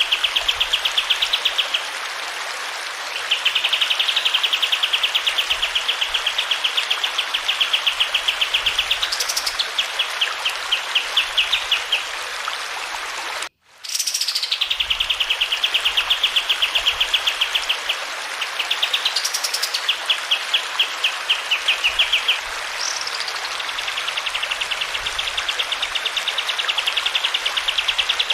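A kapas tembak songbird singing long, fast, high trills of rapidly repeated notes, broken by a few sharp rising whistles, over the steady hiss of flowing water. The sound cuts out for a moment about halfway through.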